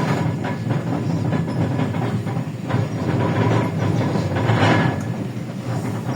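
Interior of a moving LiAZ-677M bus: the engine drones low while the body and fittings rattle continuously, and a short hiss of air comes about four and a half seconds in.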